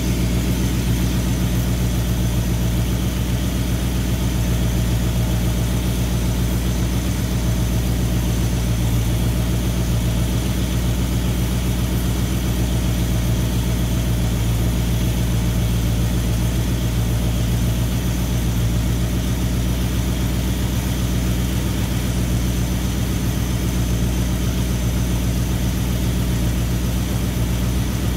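Carbureted Mopar V8 engine idling steadily and evenly, its ignition timing just set to 18 degrees initial advance with the vacuum advance not yet connected.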